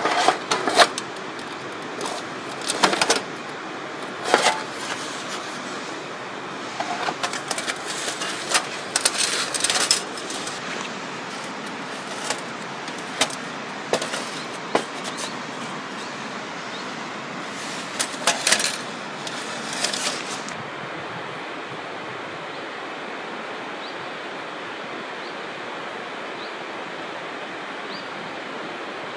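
Steady rushing noise with a run of sharp knocks and clatters, like objects being handled, through the first twenty seconds. After that only the steady rushing remains, with a few faint high chirps.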